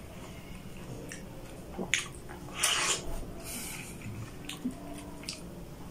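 Wet chewing and mouth smacking sounds from a man eating, with a few sharp clicks and one louder squelching smack between two and three seconds in.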